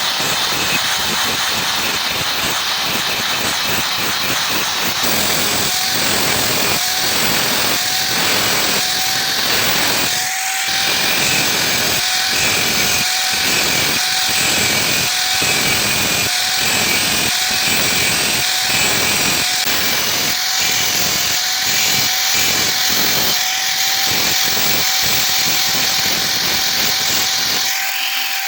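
Power tool running steadily on metal with a steady whine. From a few seconds in, regular strokes come about one and a half times a second.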